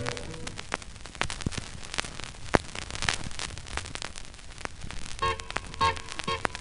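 Vinyl record surface noise in the gap between tracks: a steady hiss with scattered clicks and pops. The last notes of one song die away at the start, and the opening notes of the next song come in about five seconds in.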